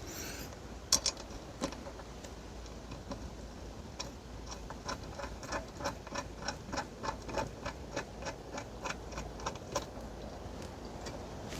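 Evenly spaced light mechanical clicks, about three a second, running from roughly four seconds in to near the end, with a few sharper clicks early on, over a low wind rumble.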